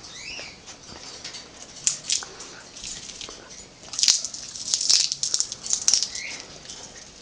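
African grey parrot cracking and shelling a peanut with its beak: irregular sharp crunches and crackles, thickest from about four to six seconds in. Two short squeaky chirps come from the bird, one just after the start and one near the end.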